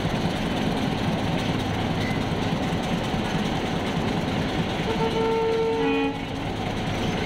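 Diesel locomotive hauling a train beneath, its engine running and wheels rumbling steadily on the rails. About five seconds in, a train horn sounds for about a second.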